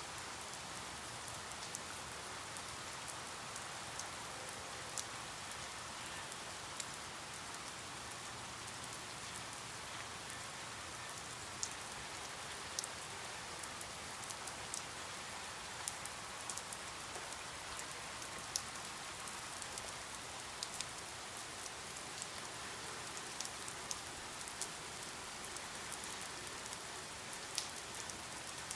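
Steady rain falling, an even hiss with scattered sharp drips and drops hitting a surface.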